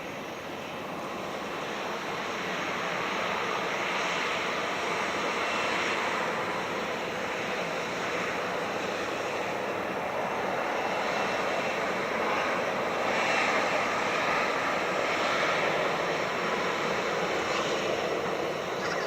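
Jet engine noise from a Boeing 737-700's twin CFM56-7B turbofans: a steady broad rush with a faint high whine. It swells over the first few seconds and is loudest about two-thirds of the way through.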